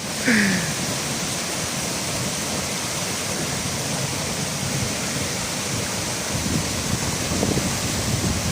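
Waterfall pouring steadily: an even, continuous rush of falling water, with some low uneven rumbling from about six seconds in.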